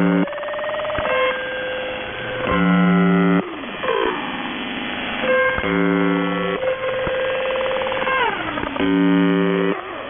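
UVB-76 'The Buzzer' shortwave signal received over a radio: its low, harsh buzz sounds three times, each a bit under a second long and about three seconds apart. Between the buzzes a pirate's electronic tones slide up and down in pitch, with a steady whistle-like tone.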